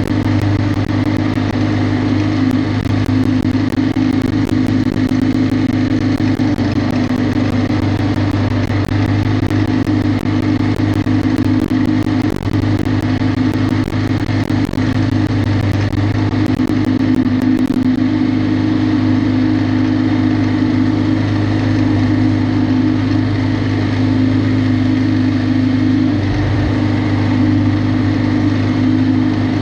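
Riding lawn mower's small engine running steadily, holding one even pitch.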